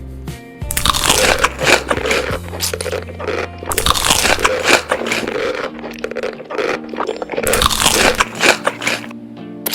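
Close-miked crunchy food being bitten and chewed, in three loud bouts of crunching, over quiet background music.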